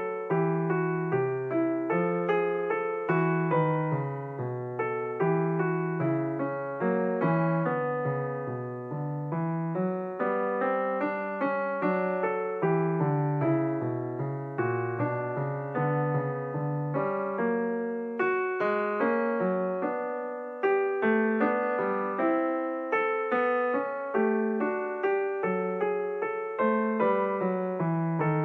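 Background music: solo piano playing a calm, steady run of notes.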